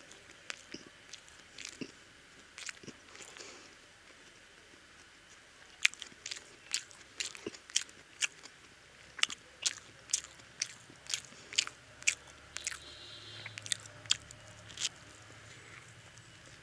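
Close-up chewing and biting of egg toast: a few scattered crunches at first, then sharp crunches coming thick and fast from about six seconds in.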